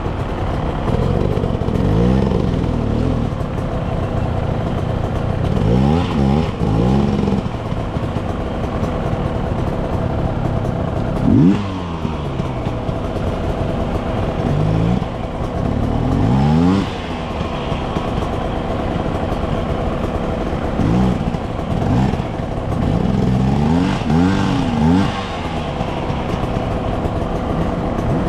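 Dirt bike engine being ridden, its pitch rising and falling with the throttle over and over as it revs up and eases off, with the sharpest, loudest rev about a third of the way in.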